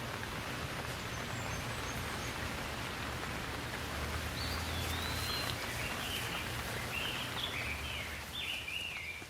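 Steady rain falling, heard as an even hiss over a low rumble. A songbird sings a run of short whistled notes that rise and fall, starting about halfway through and going on almost to the end.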